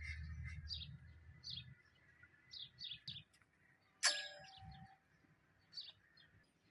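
Small birds chirping faintly: short, quick downward chirps, repeated irregularly several times a second. A low rumble runs through the first couple of seconds, and a single sharp clink with a brief ringing tone comes about four seconds in.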